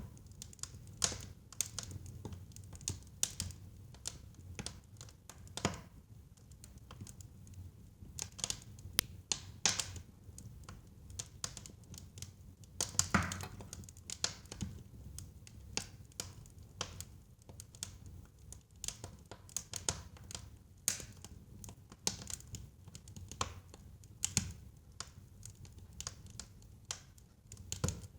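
Wood fire burning in a fireplace: irregular sharp crackles and pops, a few louder ones, over a low rumble of the flames.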